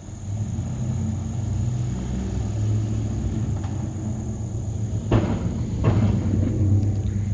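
A vehicle's engine running low and steady as it rolls slowly over a wooden board bridge, with two loud clunks from the deck planks about five and six seconds in.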